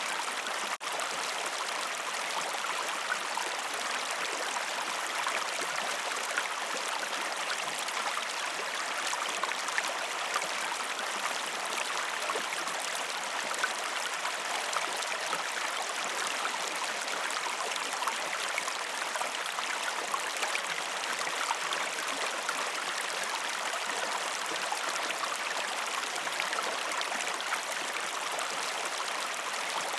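Waterfall: a steady, even rush of falling water, with a brief dropout just under a second in.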